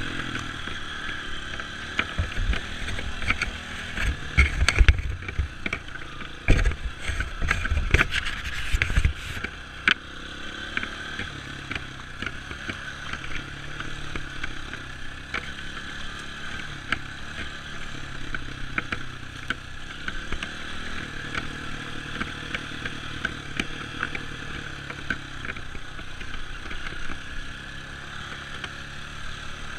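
Dirt bike engine running steadily at low revs, with a run of knocks, clatter and low thumps between about 3 and 9 seconds in.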